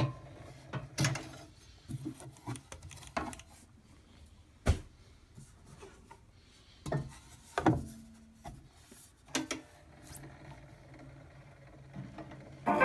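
Scattered knocks, clicks and rubbing as a phonograph's disc is taken off and the next polyurethane Diamond Disc copy is put on, the sharpest a single click a little before the midpoint.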